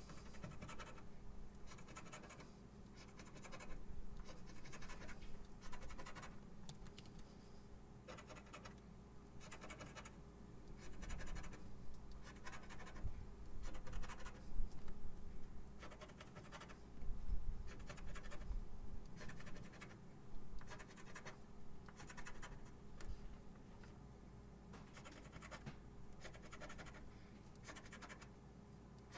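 Scratch-off lottery ticket being scratched: short, irregular scraping strokes in bursts, with brief pauses between them. A faint steady hum sits underneath.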